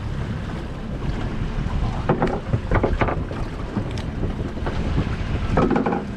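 Wind buffeting the microphone over the steady low rumble of a fishing boat under way, with a few brief louder noises about two to three seconds in and again near the end.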